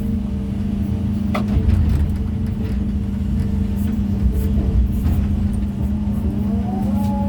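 Heavy machinery's diesel engine running steadily at stone-placing work, with a sharp knock about a second and a half in and a whine that rises and falls near the end.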